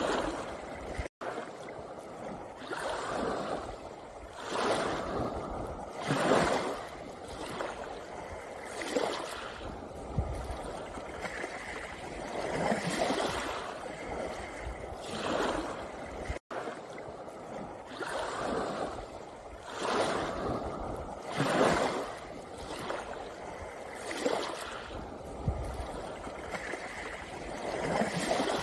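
Small sea waves washing in and out over a pebble beach, one surge every two to three seconds. The sound cuts out completely for an instant twice.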